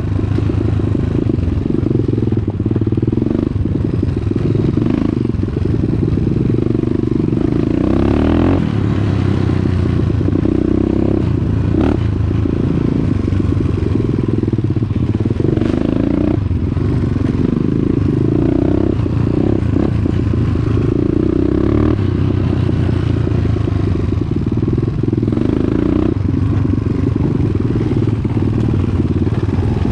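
Dirt bike engine running continuously while riding, its note shifting up and down with the throttle every few seconds.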